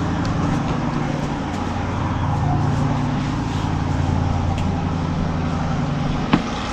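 An engine running steadily, a low, even drone, with one sharp click about six seconds in.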